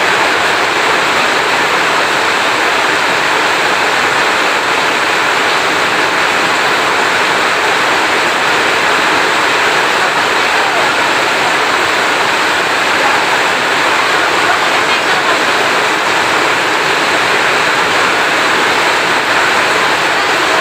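Heavy rain falling steadily, a dense, even hiss with no thunder claps.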